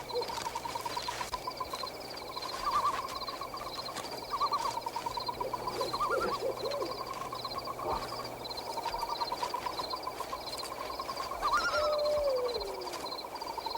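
Night-forest sound effects: a steady, fast pulsing trill and high chirping of small animals, with a few lower calls about six seconds in and a single falling call near the end.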